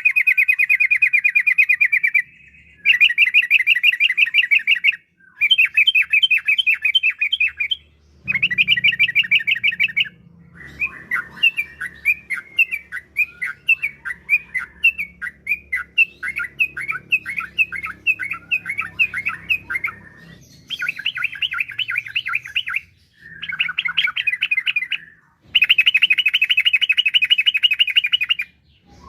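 Yellow-vented bulbul (trucukan) singing in repeated bouts of fast, rolling chatter, each lasting two to three seconds with short breaks. About ten seconds in, it changes for a while to a softer, more varied warble, then returns to the loud rolling bursts.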